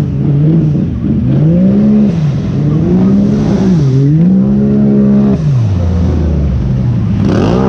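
Truck engine revving hard up and down over and over, its pitch climbing and falling several times. It drops to a lower, steady note about six seconds in, then climbs again near the end.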